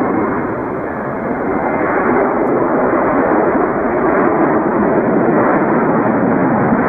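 Jet engines of an Airbus A320-family airliner running at high power: a loud, steady noise that grows a little louder about two seconds in.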